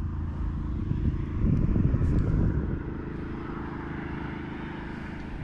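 A distant engine droning steadily with a low, even pitch, louder for a moment about two seconds in.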